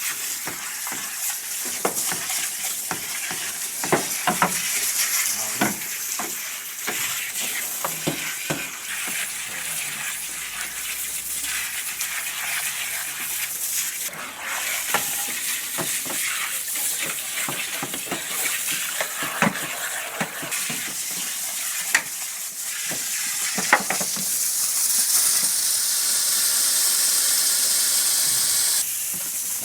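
Water raining down over a car's engine bay, hissing and splashing with many sharp drips and spatters. A stronger, steadier hiss builds near the end and cuts off suddenly.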